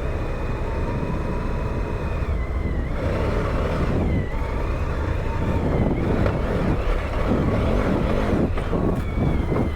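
Adventure motorcycle riding at speed: the engine runs steadily under heavy wind rush on the microphone, its pitch dipping and rising a little as the speed changes.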